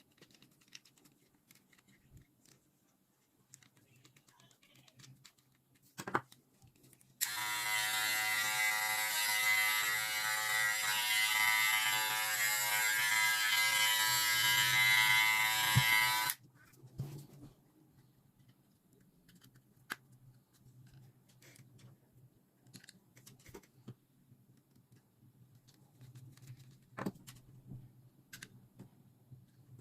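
A Gamma+ grooming device's electric motor switches on suddenly and buzzes steadily at one even pitch for about nine seconds, then cuts off. Faint clicks of small parts being handled come before and after.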